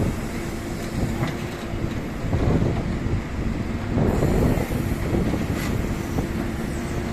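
A heavy engine running steadily, a constant low hum under a rumble that swells louder twice, about two and a half and four seconds in.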